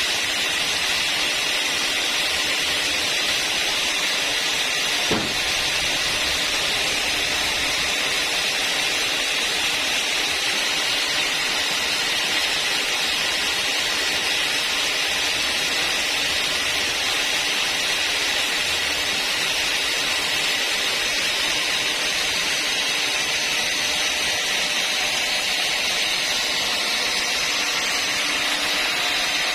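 Sawmill saw running steadily through a long log, a constant high-pitched whir and hiss, with one sharp knock about five seconds in.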